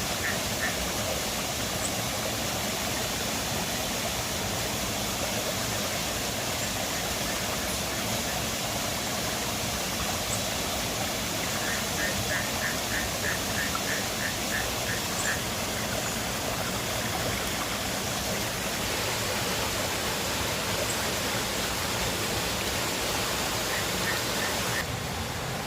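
River water rushing steadily. Runs of quick, evenly spaced high chirps come through it, one lasting several seconds midway and a short one near the end.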